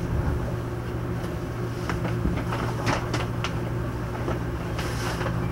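In-car sound of a Taiwan Railway EMU700 electric multiple unit: a steady low hum with a few sharp clicks and knocks in the middle and a short hiss near the end.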